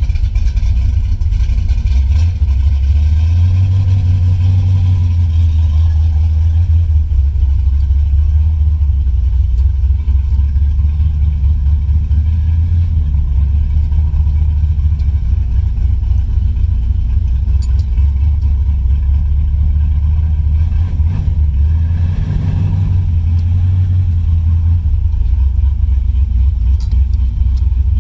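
1976 Chevrolet Camaro's engine idling as it warms up after a cold start, a steady low exhaust note.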